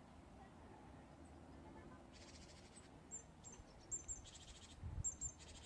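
Faint calls of small birds: from about two seconds in, short high chirps falling in pitch and several buzzy, rapidly pulsed trills, each under a second long. A few low thumps come near the end.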